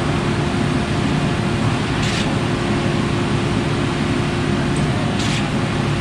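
Concord 40-meter boom concrete pump truck running steadily under load while pumping, a constant engine and hydraulic drone with a steady hum. A short hiss cuts in about every three seconds, twice.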